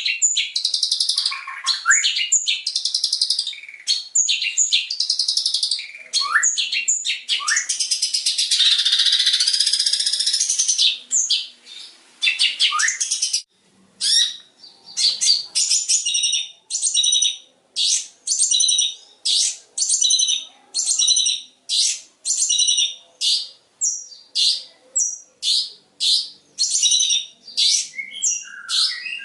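Long-tailed shrike (cendet) singing loudly, a rapid, varied run of mimicked phrases, then a string of short, high, repeated notes about two a second.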